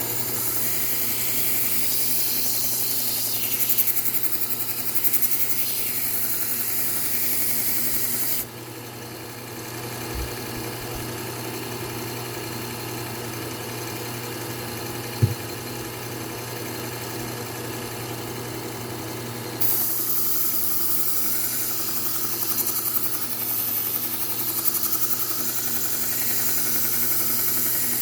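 Belt sharpener running with a Trizact A30 belt, a steady motor hum throughout. A knife edge is pressed to the belt twice, each time adding a loud, high grinding hiss: for the first eight or so seconds and again from about twenty seconds in. A single sharp click sounds about halfway through.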